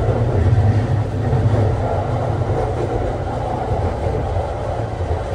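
JR East Tokaido Line commuter train running, heard from inside a passenger car: a steady, loud rumble of wheels and running gear on the track.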